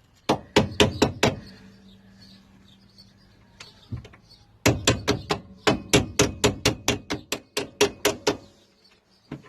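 Hammer blows driving a suspension bolt that is a tight fit: a few quick strikes near the start, one more, then a long steady run of about four strikes a second that stops shortly before the end.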